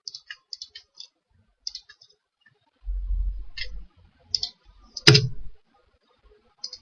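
Computer mouse clicking, a few short scattered clicks, with a low rumble partway through and one louder knock about five seconds in.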